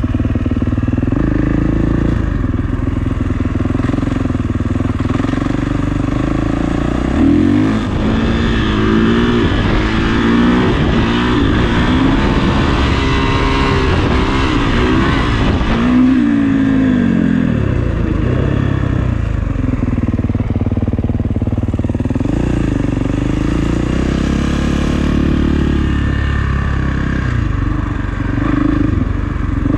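Kawasaki KX450 single-cylinder four-stroke dirt bike engine running under way, with repeated revving rises and falls through the gears in the middle stretch, then steadier riding.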